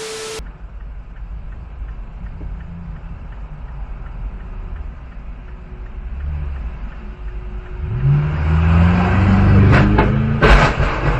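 A vehicle engine running low, then revving up with a rising pitch about eight seconds in. Two sharp knocks come near the end.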